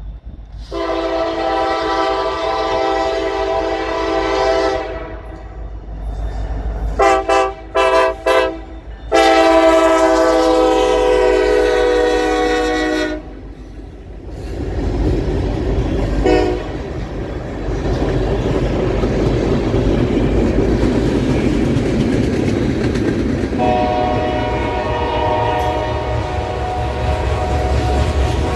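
Norfolk Southern freight train led by an SD70ACU locomotive sounding its multi-chime air horn for a grade crossing: a long blast, a few short blasts, then another long blast. The train then rumbles past with the clickety-clack of wheels on rail joints, and the horn sounds once more, more softly, near the end.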